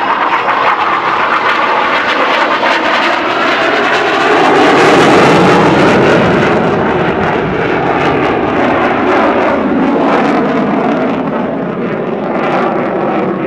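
KAI T-50 Golden Eagle's single General Electric F404 turbofan as the jet flies its display, a loud rushing roar with shifting pitch that swells to its loudest about five seconds in and then slowly fades as it moves away.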